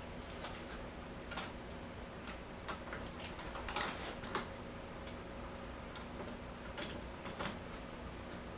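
Irregular light clicks and taps of plastic and metal hinge parts being handled on a washer door, several close together about four seconds in.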